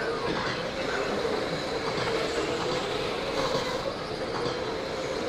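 A pack of radio-controlled race trucks running laps, a steady mixed whine of motors and drivetrains that wavers slightly in pitch, over tyre and track noise.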